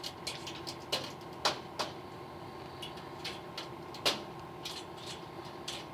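A hairy woodpecker moving about in a pet crate: irregular light clicks and taps against the crate, with two louder knocks, over a steady low hum.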